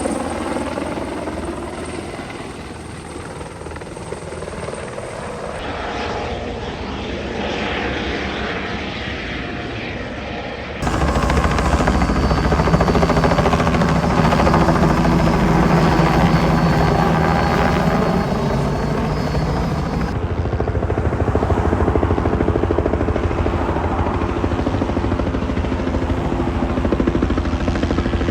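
Helicopter rotors and turbine engine running, with fast rotor chop. The sound changes abruptly a few times and gets louder about a third of the way in, where a steady high whine joins it for several seconds.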